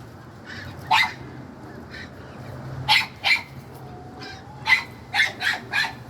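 A dog barking: a series of short, sharp barks, a single one about a second in, then a quick pair at about three seconds and a run of three or four near the end.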